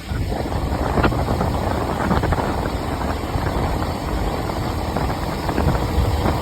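A vehicle engine running steadily: a continuous low rumble.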